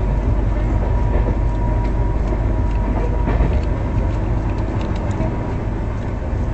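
Indian Railways express train running at speed, heard from inside a 2nd AC coach: a steady low rumble of wheels on the track with a few faint clicks.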